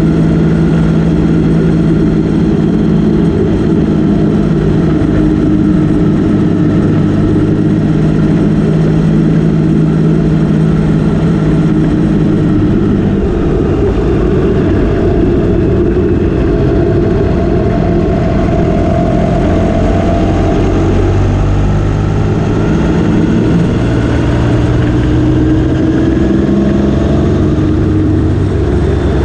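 Motorcycle engine running on the move: a steady note for the first dozen seconds, then the pitch shifts and rises twice as the revs climb.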